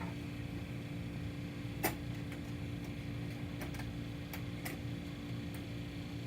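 Steady hum with a constant tone in it, and a handful of light clicks of small parts being handled, the sharpest about two seconds in.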